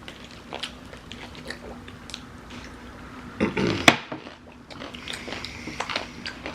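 People chewing and eating, with scattered soft clicks and mouth noises. A little past halfway there is a louder rustling scrape ending in a sharp click. A faint steady hum runs underneath.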